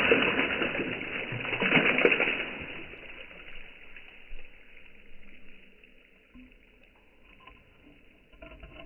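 Broken roof-tile pieces splashing into a bucket full of rainwater: two loud splashes in the first couple of seconds, after which the sound dies down to faint noise.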